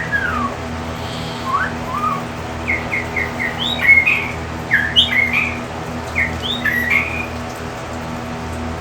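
Birds calling: a few slurred whistles, then a run of short quick chirps and whistled notes that stops near the end, over a steady low hum.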